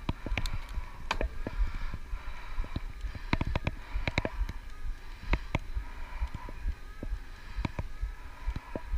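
Electric bike ridden over a gravel track: irregular sharp clicks and rattles over a steady low rumble, with a faint steady whine from the assist motor.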